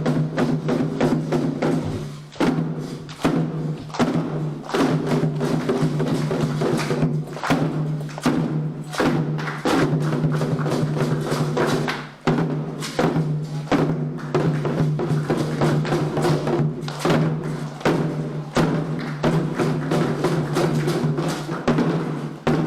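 Candomblé ritual percussion: atabaque hand drums and other percussion playing a fast, dense, continuous rhythm, with a steady low hum underneath.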